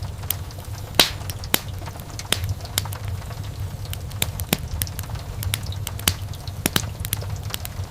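Wood fire crackling in a fireplace: irregular sharp pops and snaps several times a second, the loudest about a second in, over a steady low rumble of the burning.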